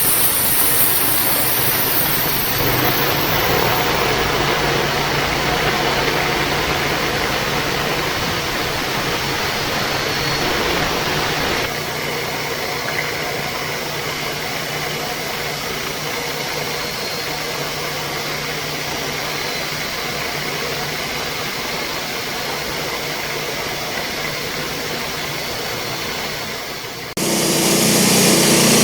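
Sawmill engine running steadily with the blade turning. It drops a little in level partway through, then turns abruptly louder and harsher near the end.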